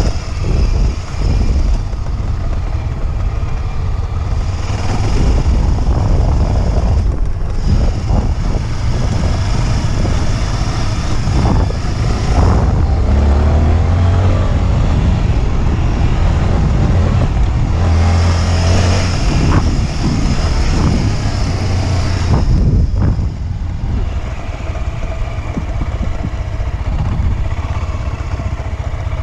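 Motorcycle engine running under way, its revs rising and falling as the rider works the throttle.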